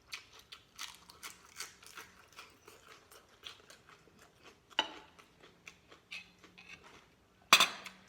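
Eating sounds: spoon or chopsticks clicking and scraping against a bowl in small irregular taps, with a sharper clink about five seconds in and a louder one near the end.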